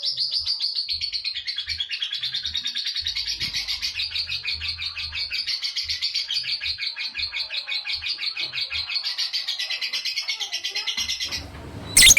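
Female lovebird giving a long 'ngekek' song: an unbroken, rapid, high chattering trill that stops about eleven seconds in. A sharp knock follows near the end.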